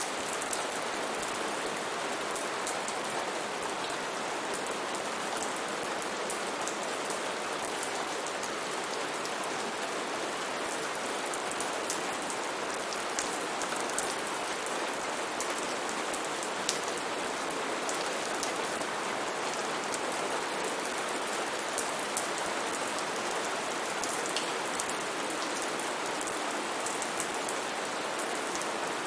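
Steady rainfall on foliage, an even hiss with many close, distinct drops ticking through it.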